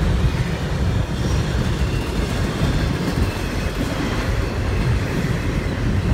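Double-stacked container cars of a CSX intermodal freight train rolling past: a steady low rumble of steel wheels on rail.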